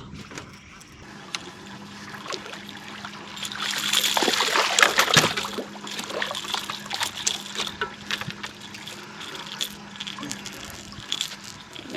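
Water splashing and dripping as a small catfish is reeled up to the boat and lifted out, loudest about four to six seconds in, with a steady low hum underneath.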